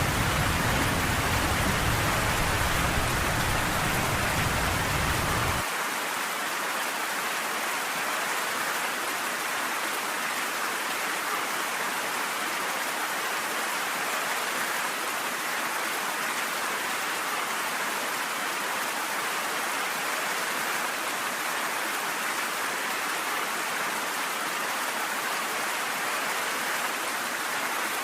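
Steady heavy rain hissing, with a deep rumble of thunder underneath that cuts off abruptly about five and a half seconds in, leaving only the rain.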